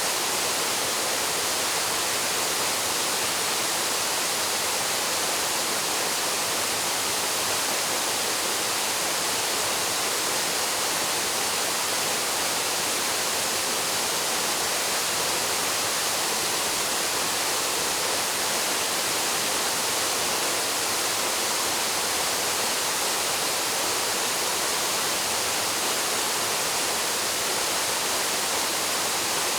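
Paraeso Falls, a mountain waterfall, pouring steadily into its pool: an even, constant rush of falling water that does not change.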